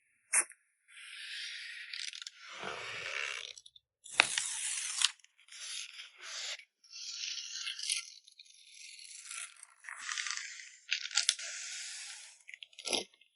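Plastic and paper packaging crinkling and rustling in irregular handfuls as photocards are packed, with a few sharp clicks and taps.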